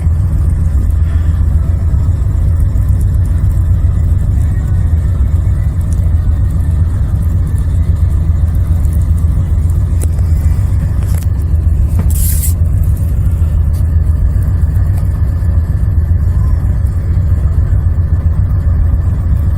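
Car driving, a loud, steady low rumble of engine and road noise, with a brief hiss about twelve seconds in.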